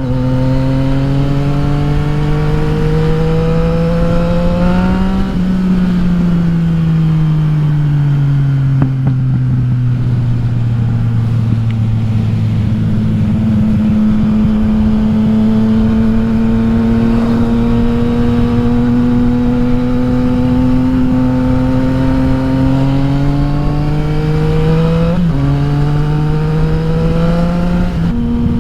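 2021 Yamaha XSR900's inline three-cylinder engine, through an Akrapovic exhaust with the dB killer removed, heard while riding. It climbs in pitch under acceleration for about five seconds, then falls back and holds a steady, droney cruise, with a sudden pitch change near the end as it shifts gear. Wind rushes underneath.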